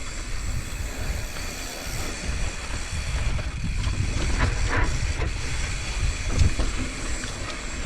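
Mountain bike rolling down a dirt trail, with wind buffeting the rider's camera microphone in a steady rumble and hiss, and a few brief knocks and rattles from the bike.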